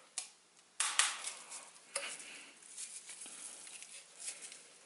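Hard plastic clicks and knocks as the Dyson V11 cleaner head and its brush roll are handled: a few sharp clacks in the first two seconds, then lighter taps and rustling.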